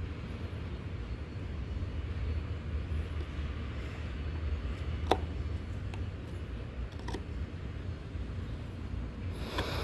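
A steady low rumble, with a sharp click about halfway through, another a couple of seconds later, and a short scraping hiss near the end.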